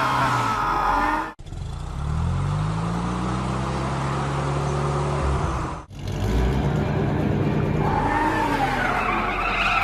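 Cartoon car engine sound effects, with an engine revving up and then running steadily. The sound cuts off abruptly twice, at edits about a second and a half in and again near the middle.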